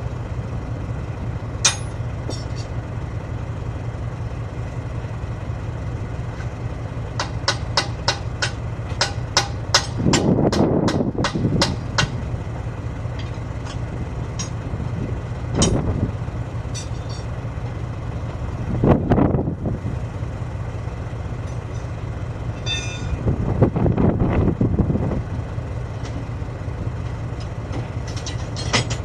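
An engine running steadily at a low pitch, with scattered sharp metal clicks and knocks from the tyre work, a quick run of them from about seven to twelve seconds in. Three louder swells of noise rise over it, around ten, nineteen and twenty-four seconds in.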